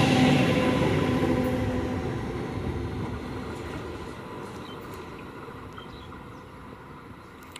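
Electric multiple unit local train running away on the next track, its rumble and wheel noise, with a steady hum, fading smoothly as it recedes.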